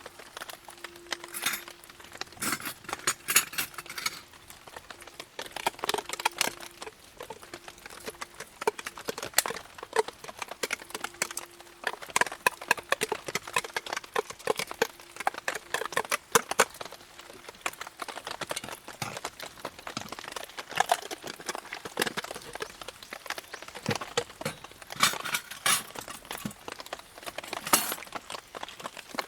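Campfire of damp wood crackling, with irregular sharp snaps and clicks, in a few places coming in quick clusters.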